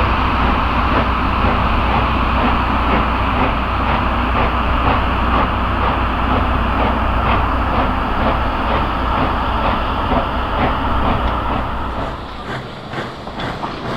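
Moving steam train of the Kettle Valley Steam Railway: a steady rolling rumble and rail noise, which near the end gives way to a regular clicking of the wheels over the rail joints.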